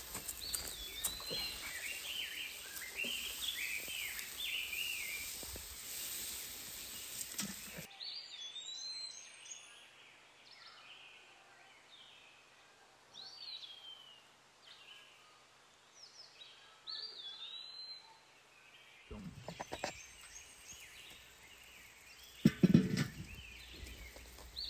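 Birds chirping and singing, over a steady hiss that cuts off about a third of the way in, leaving the bird calls alone; the hiss returns later, with a couple of loud thumps near the end.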